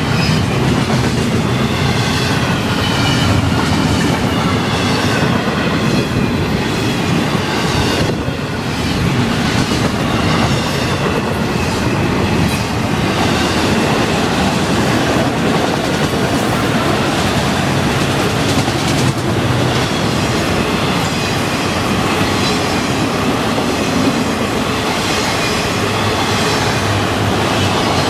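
Freight train cars rolling past at speed: a steady rumble and rattle of steel wheels on the rails, with a wavering high-pitched whine and occasional clacks.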